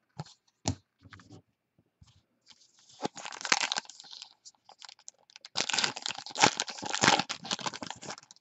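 Crinkly packaging being handled during trading card pack opening: a few light clicks of cards being handled, then two bouts of crinkling and tearing, the second about two and a half seconds long.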